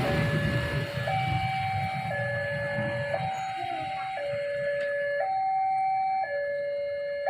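Railway level-crossing warning alarm sounding two alternating tones, high then low, each held about a second, over a low rumble that fades over the first few seconds.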